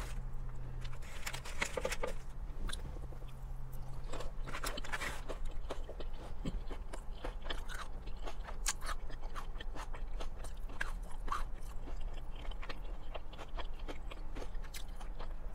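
Close-up eating of crispy fried chicken: irregular crunching bites and wet mouth clicks as it is chewed. In the later part, fingers are sucked clean of grease.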